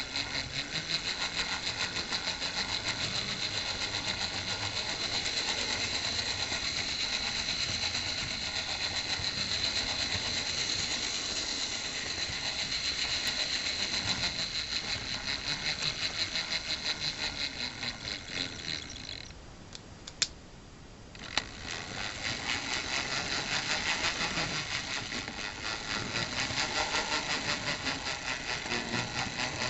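Playcraft 0-4-0 model tank locomotive running along the track: the electric motor and gear train give a steady high whine with a fast, even buzzing pulse. The owner calls it quite a bit of transmission noise. About two-thirds of the way in the sound drops away briefly, with two sharp clicks, then picks up again.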